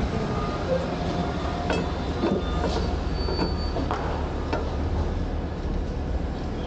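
Garbage truck's diesel engine running with a steady low rumble, with several metal clanks and brief high squeals between about two and five seconds in.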